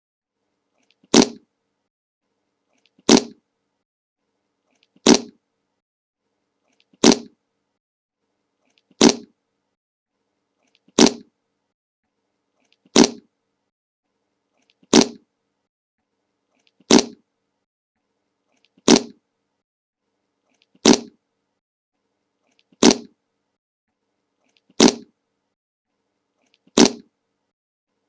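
The same short fart sound effect repeated about every two seconds, each blast brief and identical, with silence between them.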